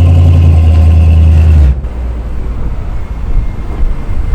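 A car engine running loud and close with a deep low rumble. Under two seconds in it cuts off abruptly to a quieter, uneven engine rumble.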